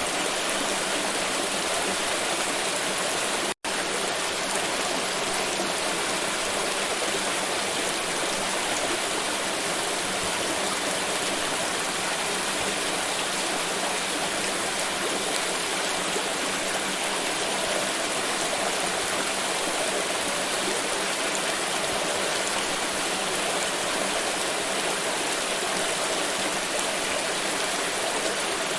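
Water pouring and rushing steadily. The sound cuts out completely for a split second about three and a half seconds in, then carries on unchanged.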